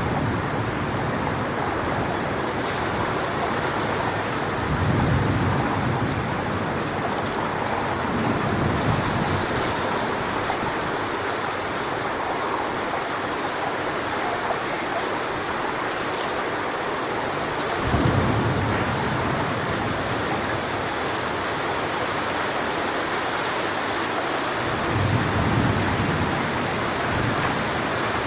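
Strong wind rushing through coconut palm fronds, a steady noisy rush. Several heavier low gusts buffet the microphone, the sharpest one about two-thirds of the way in.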